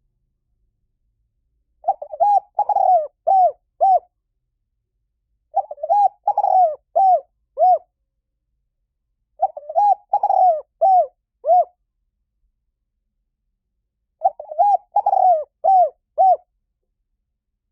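Spotted dove cooing: four phrases of five or six short, arched coos each, the phrases a few seconds apart.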